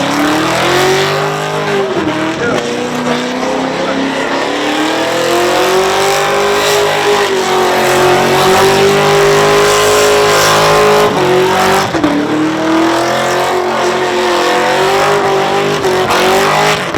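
V8 engine held at high revs during a burnout, its note wavering with brief sharp dips about two seconds in and again near eleven seconds, over the screech of spinning tyres.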